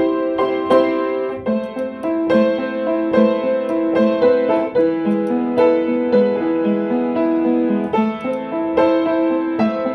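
Piano music: a steady run of notes with chords beneath, each note struck and then dying away.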